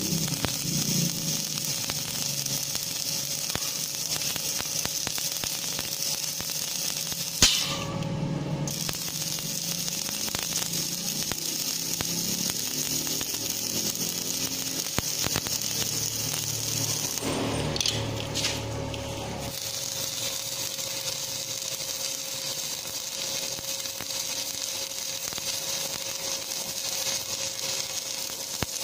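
Electric arc welding on the steel joint of a chainsaw guide bar: a steady crackling hiss from the arc, broken off twice, once just after a sharp click.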